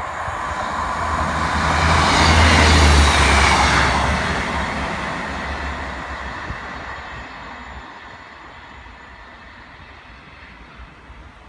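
Class 158 diesel multiple unit passing through the station at speed: low engine hum and wheel-on-rail noise build to a peak about three seconds in, then fade steadily as the train moves away.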